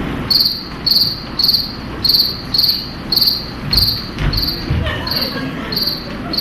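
Cricket chirping steadily, about two chirps a second, with a few dull low thumps around the middle.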